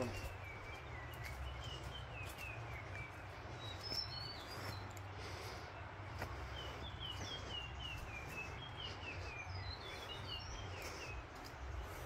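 A bird singing runs of short, quick, falling chirps, one run at the start and another about halfway through, over a steady low rumble.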